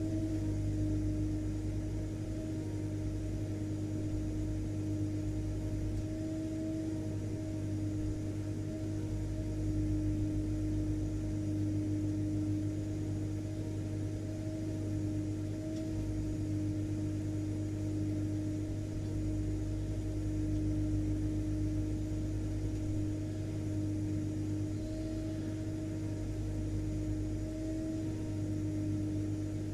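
Vacuum cleaner motor running continuously: a steady drone with a heavy low hum and a constant mid-pitched whine.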